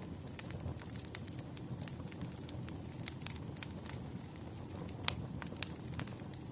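Wood fire crackling: irregular snaps and pops over a low rumble of burning logs, with one sharper pop about five seconds in.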